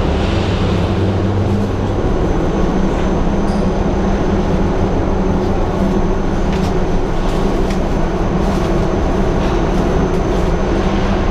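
Steady low drone of a ferry's engines and machinery, an even hum with a rushing noise over it and a few faint clicks.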